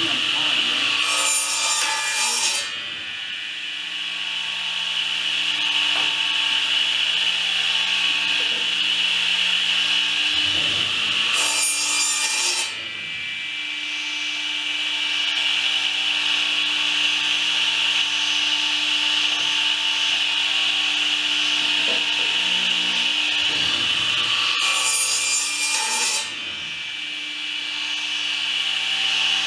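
A woodworking power tool running steadily and working wood, with three louder cutting passes, each about ten seconds apart, that cut off sharply.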